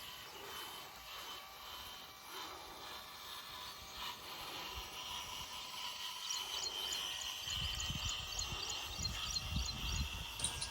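A small motor running with a steady high whine. Short high chirps and a low rumble come in during the second half.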